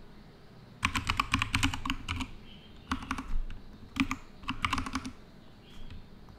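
Typing on a computer keyboard in several quick bursts of key clicks, with short pauses between them.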